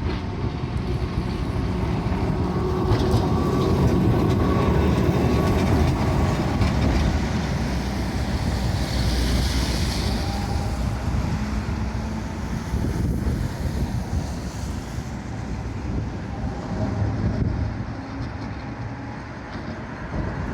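A Blackpool tram running on its rails, rumbling loudest a few seconds in and then easing off.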